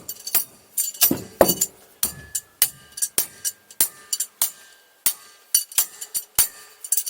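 Repeated, irregular metal strikes and clinks: tools hammering and knocking on a jet ski engine, with a few duller, heavier knocks about a second in.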